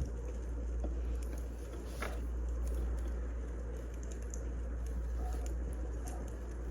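Wood fire burning: a steady low rush with scattered crackles and small pops, one sharper pop about two seconds in.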